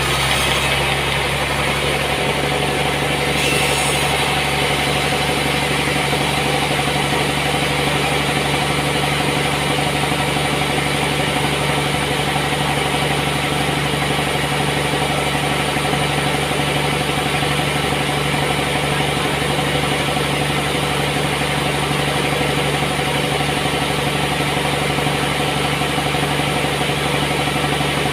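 Sawmill machinery running steadily: a constant low engine-like hum with a hiss above it, unchanged throughout.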